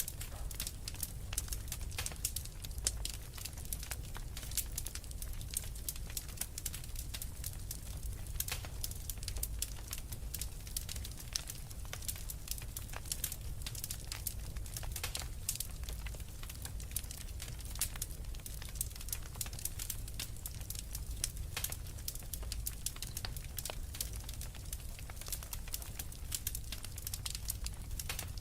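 Wood fire in a fireplace crackling: many small irregular pops and snaps from burning logs over a low steady rumble of the flames.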